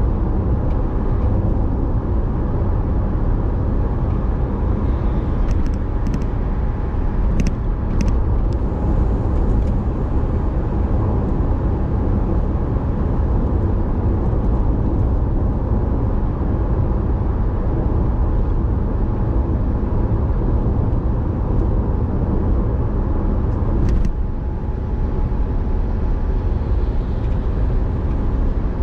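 A car being driven, with a steady low rumble of engine and road noise and a few brief clicks.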